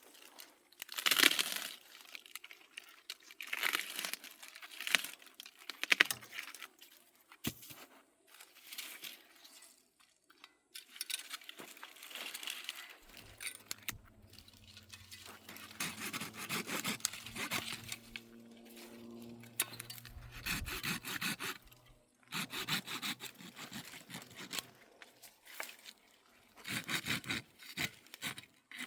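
Wood being worked with a hand tool: irregular scraping strokes, one every second or two. A steady low hum runs underneath from about halfway through until about three-quarters of the way.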